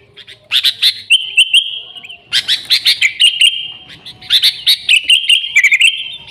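Sooty-headed bulbul (kutilang) singing loudly: three phrases about two seconds apart, each a burst of sharp notes running into a warbling run.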